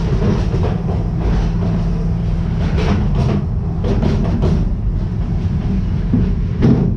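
Amusement-park excursion train running on its track, heard from an open passenger car: a steady low rumble with a quick run of wheel clicks over rail joints a few seconds in.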